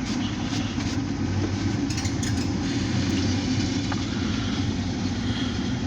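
Alco diesel locomotive's engine idling with a steady low drone.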